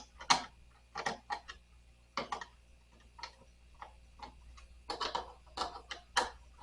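Irregular sharp clicks and light knocks, some in quick clusters, from hand tools and hardware being worked loose while a nightstand is taken apart.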